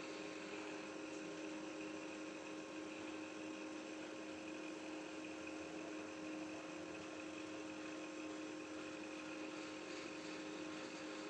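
Steady electrical hum with an even hiss.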